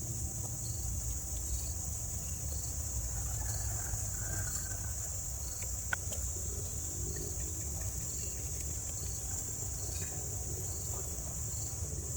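Insects chirping: a steady high buzz with soft chirps repeating about every half second, over a low rumble, and a single sharp click about halfway through.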